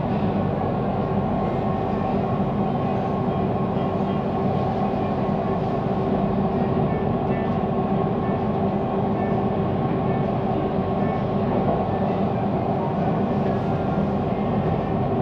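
Siemens Inspiro metro train running at speed, heard from inside the carriage: a steady rolling noise of wheels on rail with a continuous hum of several steady tones.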